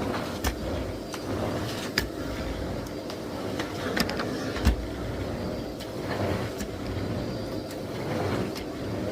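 Miele Blizzard CX1 Cat & Dog PowerLine cylinder vacuum cleaner running steadily while vacuuming, with a few sharp knocks as the floor head bumps against things.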